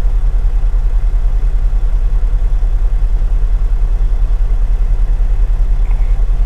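Semi truck's diesel engine idling steadily, a low even rumble with a regular pulse.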